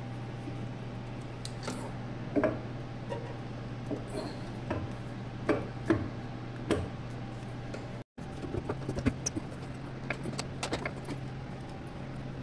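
Scattered light clicks, clinks and knocks of metal parts and tools being handled, over a steady low electrical hum. The sound cuts out for an instant about eight seconds in.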